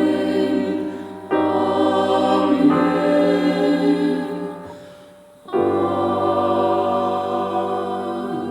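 Vocal ensemble singing held chords in close harmony; the voices fade out about five seconds in and come back in together half a second later.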